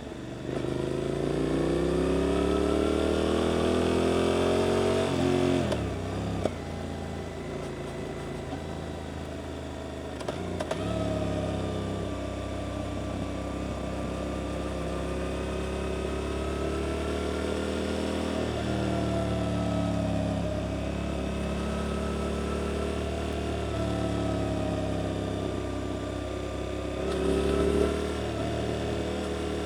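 Suzuki GSX-8S parallel-twin engine through an Arrow exhaust under way. It revs up hard over the first five seconds, drops sharply as the throttle closes or it shifts, then runs at steadier revs with small rises and falls and a brief surge near the end.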